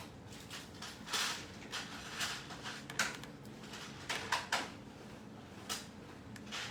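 Drawing strokes on paper: a dozen or so short, irregular scratchy swipes of a pen or marker.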